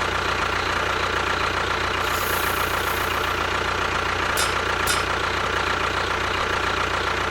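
A motor running steadily at an even pace, with a brief high hiss about two seconds in and two short clicks about half a second apart later on.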